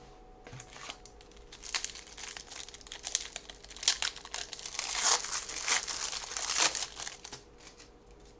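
Wrapper of a 1996-97 Topps Stadium Club basketball card pack being torn open and crinkled, a dense crackling that grows loudest toward the end and then stops.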